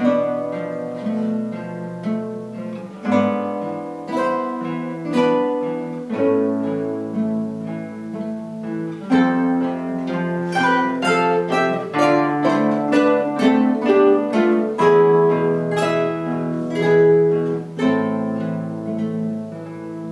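Guitar ensemble playing an instrumental piece: several acoustic guitars plucking melody and chords together, with a passage of quicker notes in the middle.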